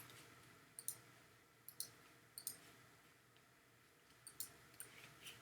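Faint computer mouse clicks, several in quick pairs, as the image-editing program is worked, over near silence.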